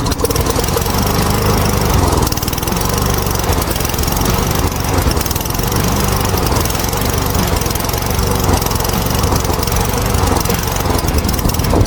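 Poulan P3416 chainsaw's 34cc two-stroke engine running steadily on its new Hipa carburetor.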